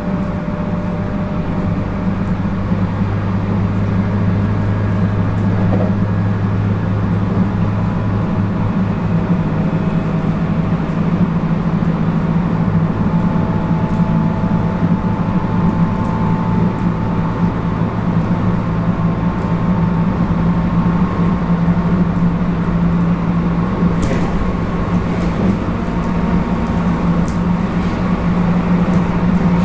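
Interior running noise of a JR West 221 series electric train heard from inside a motor car: the MT64 traction motors and gearing drone steadily over wheel-on-rail rumble between stations. Air-conditioning hum and door vibration sit underneath, with a sharp click about 24 seconds in.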